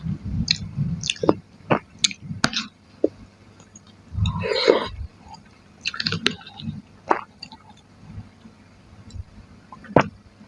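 Chewing and mouth sounds of a person eating chicken and tofu curry: irregular clicks and smacks, with a longer, denser stretch of chewing about four to five seconds in.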